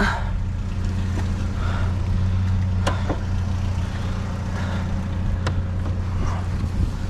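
Steady low drone of an idling engine, with a few sharp clicks and knocks of items being handled through the trash.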